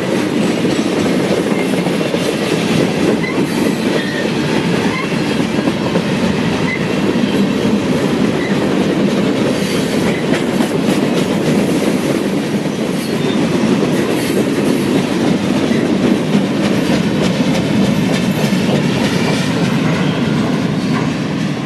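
Freight train's cars rolling steadily past, steel wheels clicking over the rail joints, with a few brief faint wheel squeals.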